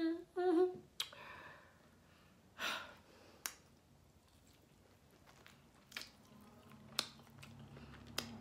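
A short hummed "mm-mm" at the start, then scattered wet mouth clicks and lip smacks from biting and chewing a sauce-covered barbecue rib.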